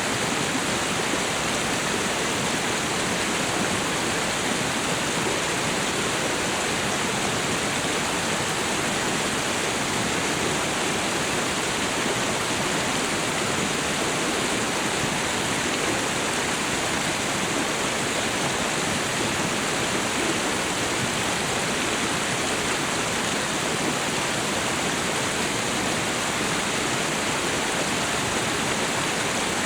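Waterfall and river water falling and running: a steady, even rush of water with no change or breaks.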